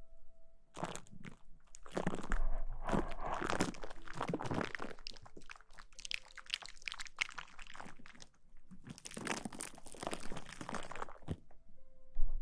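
Close-up ASMR rustling and crinkling: irregular, scratchy crackles right at the microphone, with brief pauses, stopping about a second before the end.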